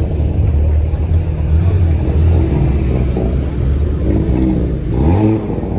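Car engines running with a deep, steady low rumble.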